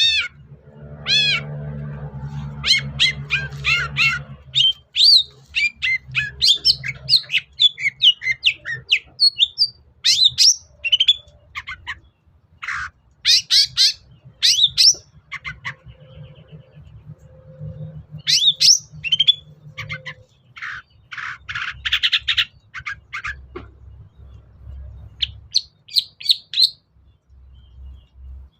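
Long-tailed shrike (cendet) singing a rapid, varied chattering song of sharp chirps, trills and harsh notes, broken by a few short pauses.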